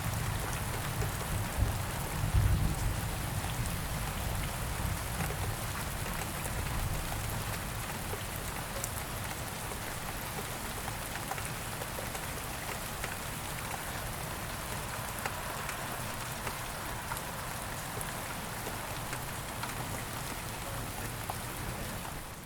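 Steady rain falling, an even hiss with scattered drop ticks, with a low rumble under it in the first few seconds that then fades.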